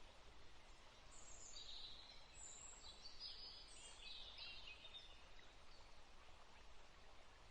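Faint birdsong: a run of short, high chirps and warbles between about one and five seconds in, over a low steady hiss.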